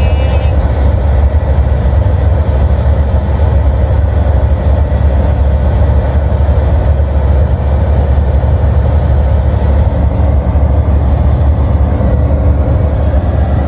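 Heavy diesel semi-truck engine pulling hard up a long mountain grade, heard from inside the cab as a steady, loud low drone with road noise.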